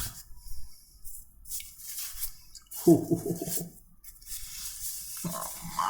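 Rustling and scraping of takeaway food boxes and packaging being handled, with a short voiced hum about three seconds in and another beginning near the end.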